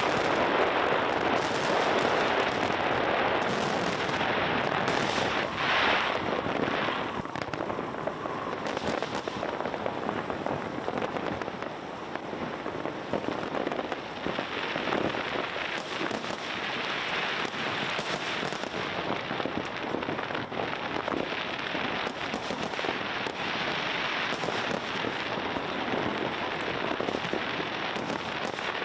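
Fireworks display with dense, continuous crackling and popping of bursting aerial shells, a little heavier in the first few seconds.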